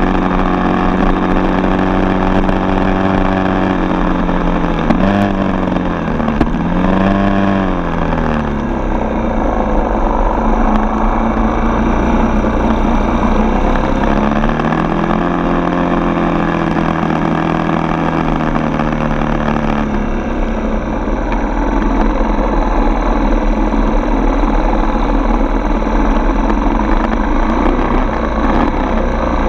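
A dirt bike's single-cylinder four-stroke engine running under way. Its pitch drops and climbs again a few times, about a quarter of the way in and again around the middle, as the throttle is eased off and reopened.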